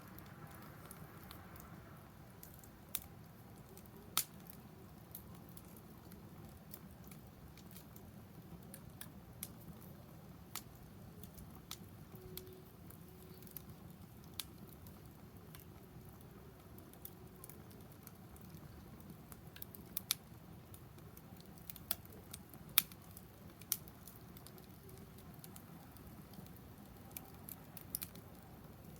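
Wood fire in a fire stand crackling faintly, with scattered sharp pops at irregular intervals, the loudest about three-quarters of the way through.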